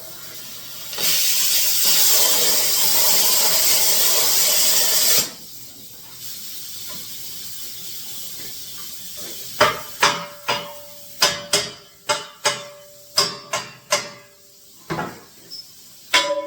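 Plasma cutter hissing for about five seconds, with a short break near the start, then stopping. Several seconds later comes a string of about a dozen sharp metallic knocks, some leaving a ringing tone.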